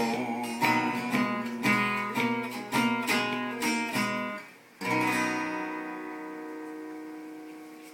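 Acoustic guitar strummed in a steady rhythm, then a short break and one final chord left ringing and fading out, ending the song.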